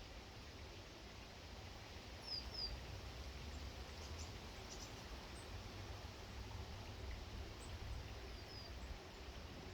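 Short, high, falling bird chirps, a pair about two seconds in and a few more near the end, over a steady outdoor hiss and low rumble.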